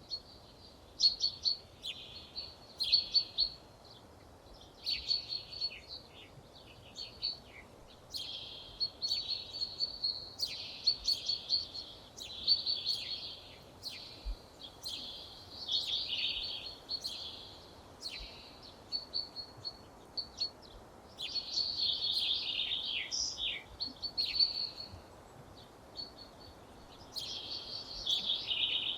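Songbirds singing, in phrases of a second or two with short gaps between them, over a faint steady background hiss.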